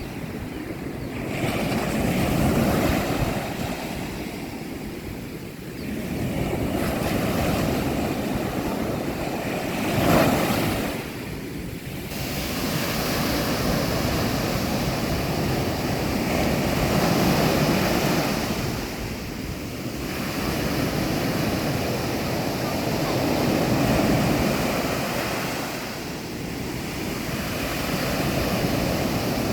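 Sea waves breaking on a beach, the surf swelling and receding every few seconds, with one louder break about ten seconds in. Some wind rumble on the microphone.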